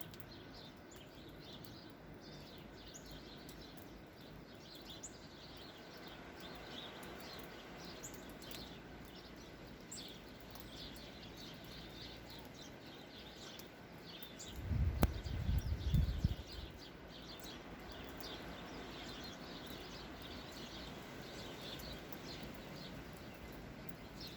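Small birds chirping over and over, short high chirps, above a steady hiss of outdoor noise. About fifteen seconds in, a brief low rumble lasts about a second and a half.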